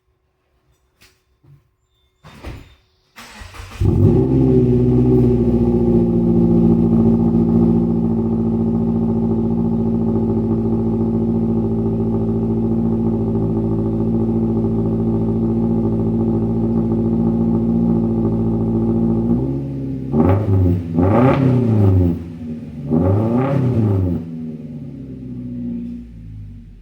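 Muffler-deleted 2014 Subaru Forester's 2.5-litre naturally aspirated flat-four engine starting up about three seconds in, then idling steadily through the open exhaust. Near the end it is revved twice, each rev rising and falling, before dropping back to idle.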